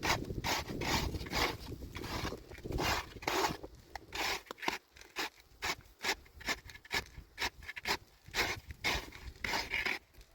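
Repeated rubbing or scraping strokes, about two a second, in an even working rhythm.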